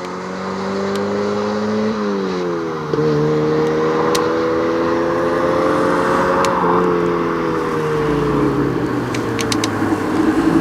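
A car's engine accelerating hard, its pitch climbing through the gears with two upshifts, about two seconds and about seven seconds in, and getting louder as it goes.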